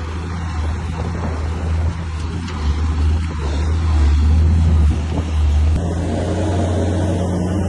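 Heavy diesel engine of earth-moving machinery running steadily with a low drone. Its note changes about six seconds in.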